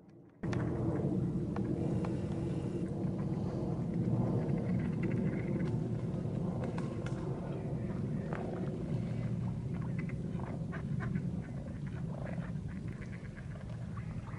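Birds calling, with a steady low rush beneath them, starting suddenly about half a second in.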